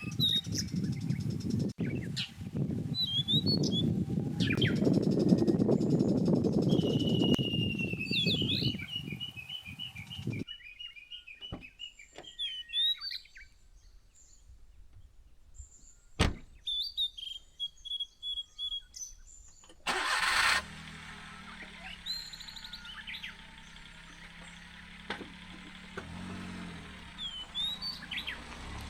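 Birds chirping, including a long trill, over a low rumbling noise that fades out about ten seconds in. About twenty seconds in, a short loud burst is followed by a vehicle engine running steadily at idle.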